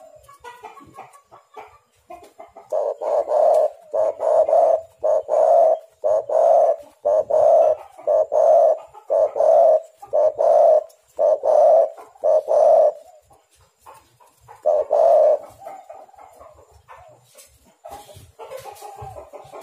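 Spotted dove (tekukur) cooing: a run of about ten low coos at roughly one a second, a pause, then one more coo, with fainter calls near the end.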